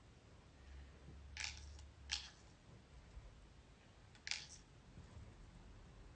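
Three short, quiet mechanical clicks from a BB gun being handled, over near silence.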